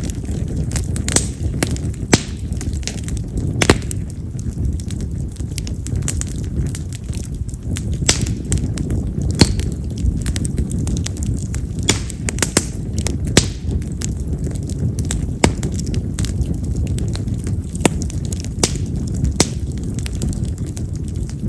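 Split wild mountain cherry (yamazakura) firewood burning in an open campfire: a steady low rush of flame with sharp, irregular crackles and pops, a few each second. This wood pops hard, louder than chestnut or oak.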